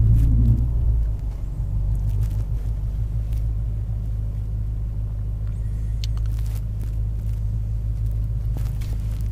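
Low, steady drone of a Dinan-tuned BMW M5's twin-turbo V8 at low, even revs, heard from inside the cabin. It eases slightly about a second in, and a few faint clicks come near the middle.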